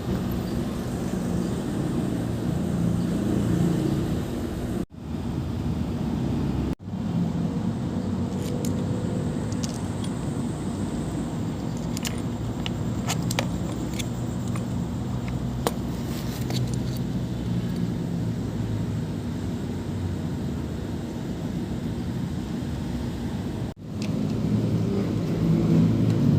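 Brush cutter engine running steadily, with the sound cutting out briefly three times and a few light clicks in the middle.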